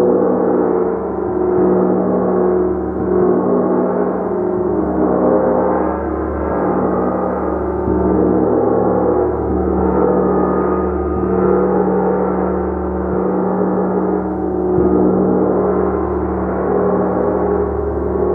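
Large gong played continuously: a dense, sustained wash of many overlapping ringing tones, swelling and easing every couple of seconds as it is kept sounding.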